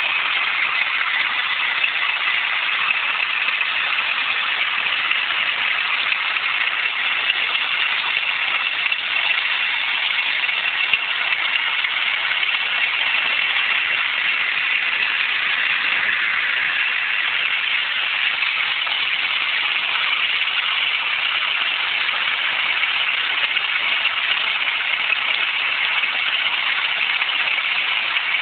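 Astra car engine running with a steady grinding noise.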